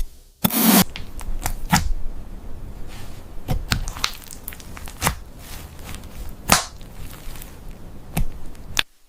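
An irregular run of sharp snaps and clicks, with a few louder cracks standing out, the loudest about six and a half seconds in; it stops abruptly just before the end.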